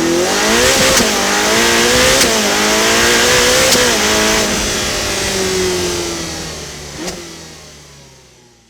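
Motorcycle V-twin engine accelerating hard, its pitch climbing with three quick drops at upshifts in the first four seconds, then running on and fading away.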